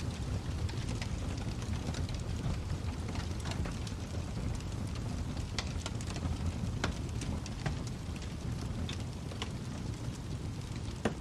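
Wood fire burning in a fireplace: a steady low rumble of the flames with irregular sharp crackles and pops of burning wood, one louder pop near the end.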